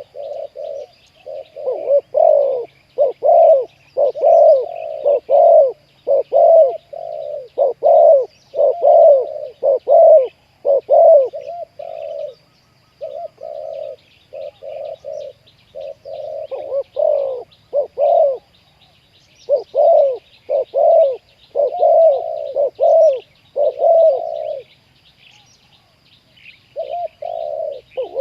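Spotted doves cooing over and over in long runs of deep coos, breaking off about halfway and again near the end. Small birds chirp faintly in the background.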